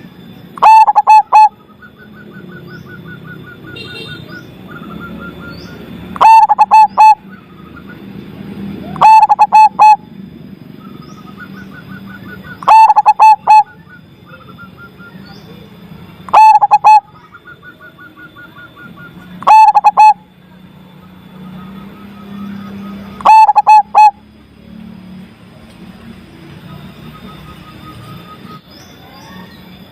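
Zebra dove (perkutut) cooing loudly, a short phrase of about four quick notes repeated every three to four seconds, seven times. Between the phrases another small bird trills faintly.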